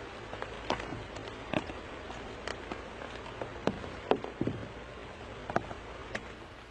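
Irregular light clicks and crackles, about a dozen scattered unevenly over several seconds, over a steady low background.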